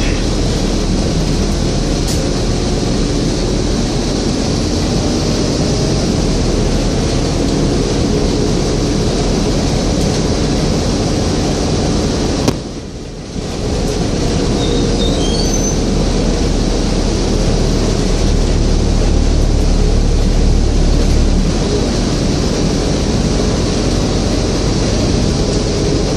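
Scania N230UD double-decker bus on the move: its five-cylinder diesel engine and road noise give a steady rumble. The rumble drops sharply for about a second roughly halfway through, then picks up again.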